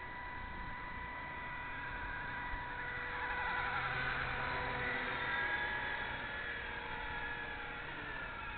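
Electric RC helicopter (Blade 230S with a triple-bladed carbon-fibre main rotor) in flight: a steady whine from the motor and rotors with a wavering higher tone, swelling louder for a few seconds in the middle as it comes closer, then easing off.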